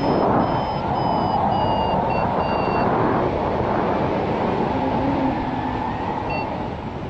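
Loud wind rushing over the microphone of a paraglider in flight. Over it a flight variometer beeps in short repeated tones for about the first three seconds, and once more near the end.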